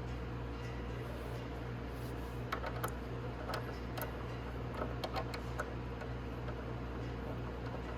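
Scattered light clicks and taps of small metal parts and hand tools, as the front brake caliper bolts and washers are fitted back in, over a steady low hum. The clicks come in small clusters between about two and a half and five and a half seconds in.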